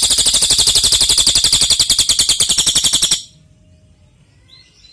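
Cililin songbird giving a loud, very fast, even trill that stops abruptly about three seconds in. A few faint short chirps follow near the end.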